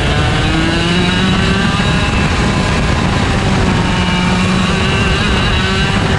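IAME Leopard 125cc two-stroke kart engine at racing speed, heard on board: the revs climb, drop off, climb again from about four seconds in, and fall away near the end.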